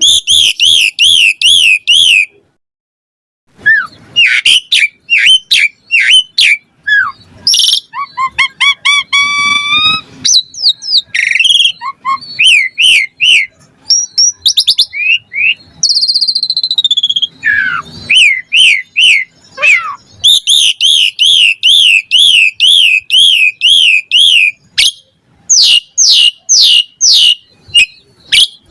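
Asian pied starling (jalak suren) singing a loud, varied song of whistles and chattering notes. It includes fast runs of rapidly repeated notes at the start and again past the middle, with a short pause about two seconds in.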